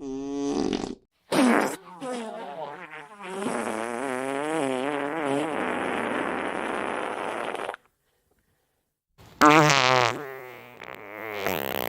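A run of fart sound effects: a short one, a brief pop, then one long drawn-out fart of about six seconds with a wobbling pitch, and after a short pause another one that tails off.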